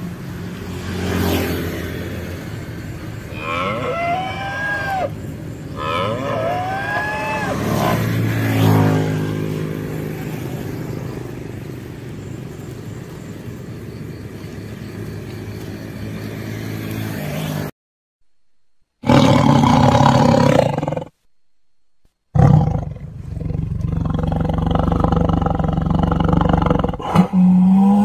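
A tiger growling and roaring in loud stretches, broken by two short silent gaps. Earlier, over a low steady rumble, come two rising-and-falling animal calls, each a second or so long.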